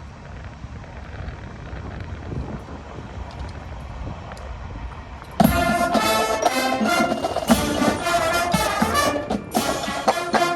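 Wind rumbling on the microphone, then about halfway through a band's brass section comes in suddenly and plays loudly.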